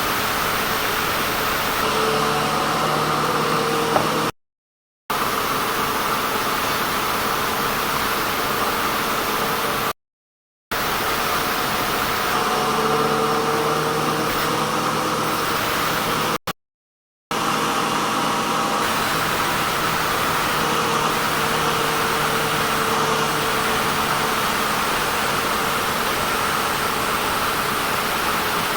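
Sawmill running while sawing a crooked teak log: a steady, loud machine noise with a low engine hum whose pitch drifts slightly. The sound cuts out briefly three times.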